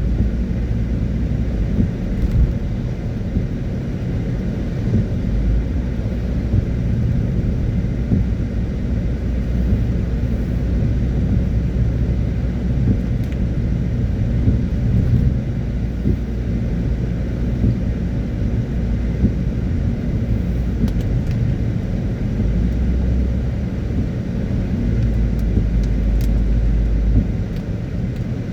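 Car driving on a rain-wet road: a steady low rumble of engine and tyres, with a few faint ticks scattered through.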